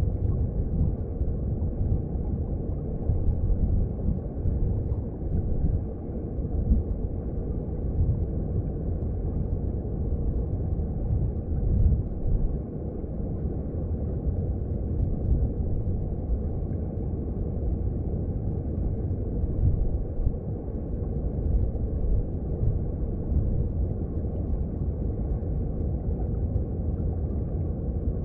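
Mountain stream water heard underwater: a steady low rumble of flowing water with faint gurgling.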